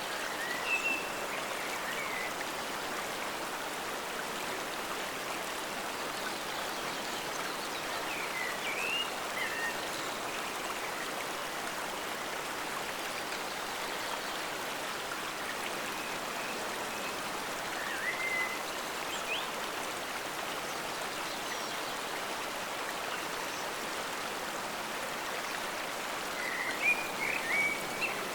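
Forest stream water flowing steadily, with short chirping calls heard four times: near the start, about a third of the way in, around the middle, and in a cluster near the end.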